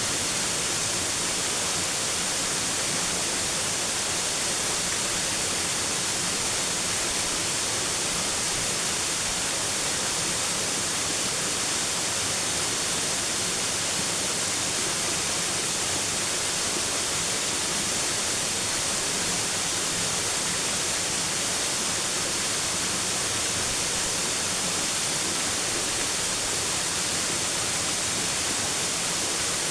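Steady rushing water of a waterfall, an even hiss that does not change.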